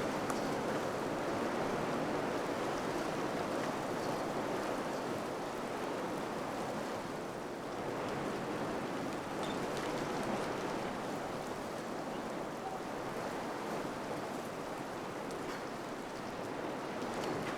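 Wind blowing steadily, swelling and easing slightly, with a few faint light ticks now and then.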